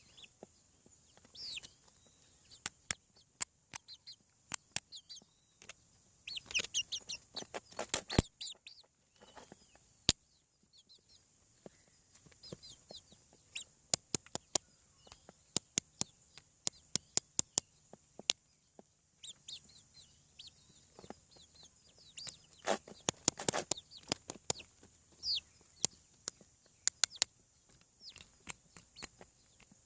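Young chickens about seven weeks old clucking and peeping, mixed with many sharp taps. Louder, busier bursts come about seven seconds in and again past twenty seconds.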